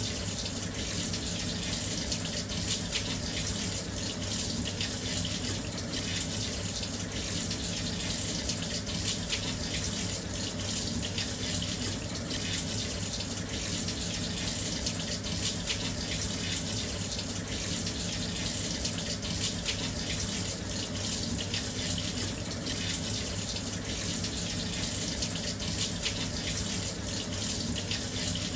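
Washing machine filling with water: a steady, continuous rush of water pouring into the drum, with a low hum underneath.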